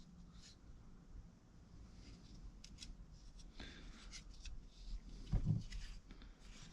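Faint clicks and rubbing of metal parts being handled: a timing chain and its guide being worked into place by hand on a 2.4 L four-cylinder engine.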